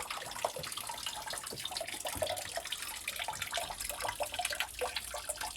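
Spring water running and splashing steadily, with a fine crackling trickle.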